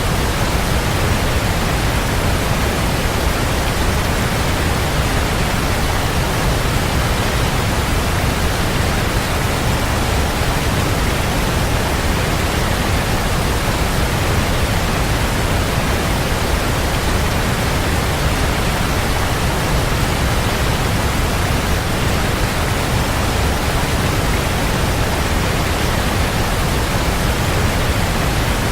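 Waterfall pouring in a steady, unbroken rush, heaviest in the low end.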